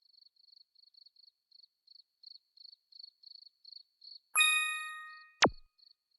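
A bell-like ding that rings and fades over about a second, followed by a quick whistle sliding steeply down in pitch, over a faint high chirping at about four a second.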